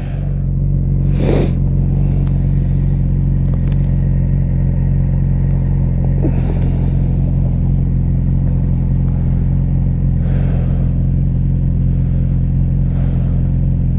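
Yamaha R6 sport bike's inline-four engine running at a steady pitch while cruising, with several brief gusts of wind noise.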